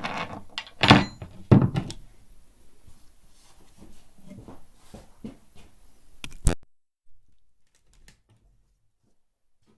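Hand tools knocking and clattering on the metal of a car trailer as its bolts are undone: two loud thunks about a second in, lighter knocks and clinks after them, and a sharp click after about six seconds, after which it goes almost silent.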